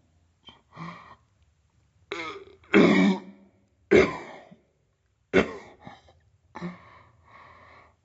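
A person coughing and clearing their throat in a string of short, harsh bursts, about six in all, the strongest near the middle.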